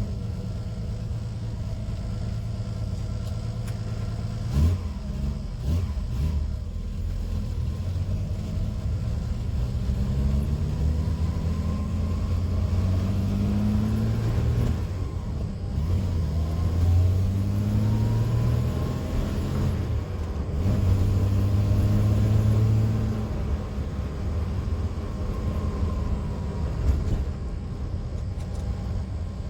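A 1979 TVR Taimar's 3.0 Ford Essex V6 under way, its pitch climbing as it accelerates and dropping sharply twice around the middle at gear changes, then holding steady before easing off.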